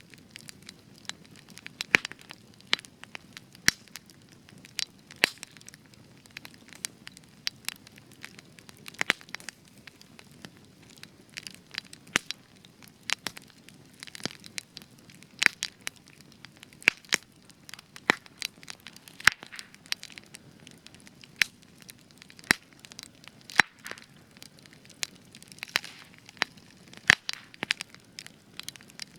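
Spruce wood burning in a campfire: frequent sharp, irregular crackles and pops over a soft hiss of flame. Spruce gives an extra lot of crackling.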